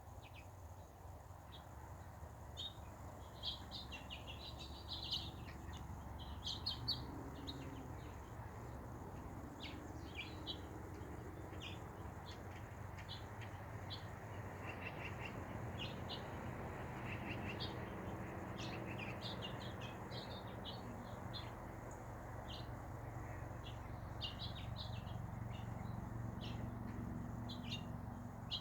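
Birds chirping, with many short high chirps scattered throughout, sometimes in quick clusters, over a steady low background rumble.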